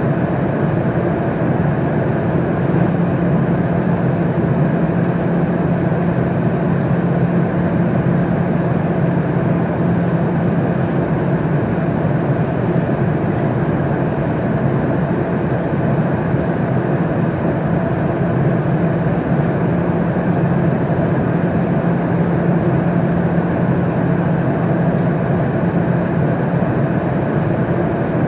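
Airliner cabin noise in flight: a steady, unchanging rush of engine and airflow noise with a low hum running underneath.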